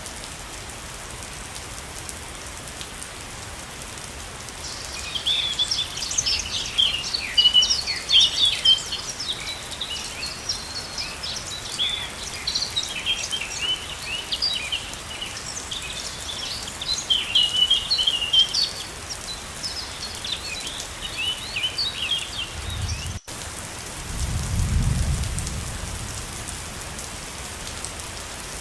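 Steady rush of falling water, with songbirds chirping busily from a few seconds in until about two-thirds of the way through. Near the end a brief low rumble rises and fades.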